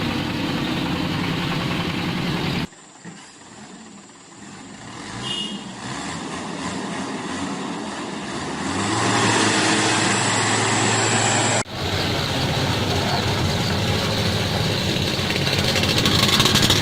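A motor engine running steadily. The sound cuts off abruptly about three seconds in and drops to a much quieter stretch, grows louder again with a steady low hum, then cuts back to the full engine noise about twelve seconds in.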